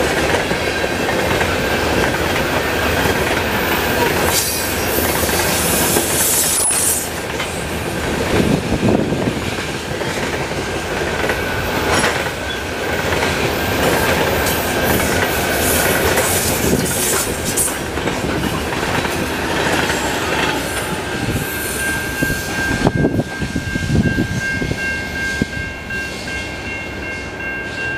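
Freight train covered hopper cars passing close by at speed: steady rumble and clickety-clack of steel wheels over the rails, with a high, steady wheel squeal. Near the end the last cars go by and the noise eases, leaving a few steady high tones.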